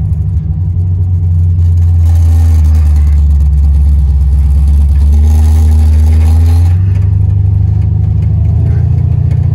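The Monte Carlo's small-block Chevy V8 running under load, heard from inside the car, with a deep exhaust rumble. It pulls harder about two seconds in and eases off about seven seconds in.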